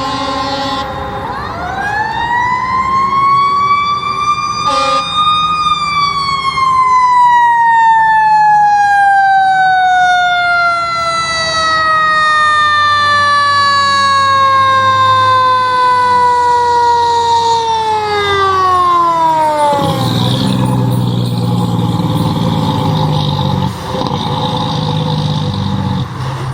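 Fire truck's mechanical siren winding up over a few seconds, then slowly coasting down in pitch for over ten seconds before dropping away about twenty seconds in. There is a brief blast near the start and another about five seconds in. The truck's engine is heard running for the last few seconds.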